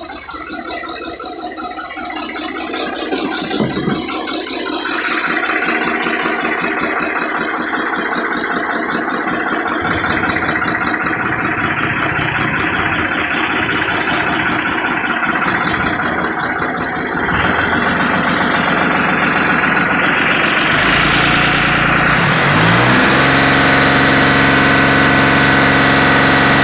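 Case IH JX55T tractor's diesel engine running with a rattle. About 22 seconds in, its speed rises and then holds steady.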